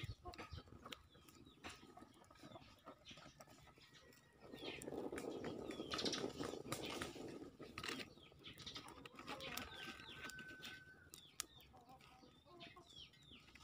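Small birds chirping in the background over scattered crackles from a wood fire. About four seconds in, a few seconds of louder rustling noise.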